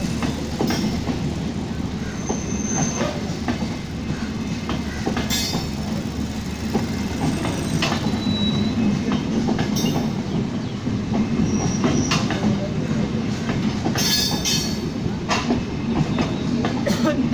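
Passenger train coaches rolling steadily past over a level crossing: a continuous low rumble with wheel clacks over the rail joints and a few brief high wheel squeals.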